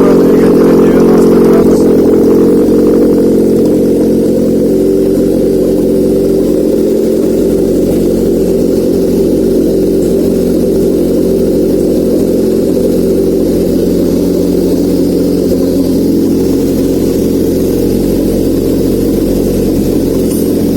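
Honda K24A 2.4-litre four-cylinder engine running steadily on a test stand, a little louder over the first few seconds, then settling to an even run.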